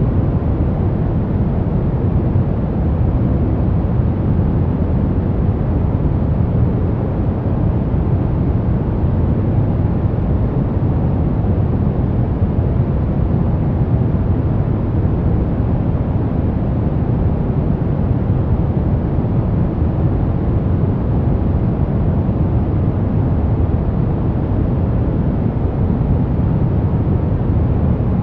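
Steady sleep-masking 'white noise': an even, unbroken hiss that is deep in tone, weighted toward the low end, with little high treble.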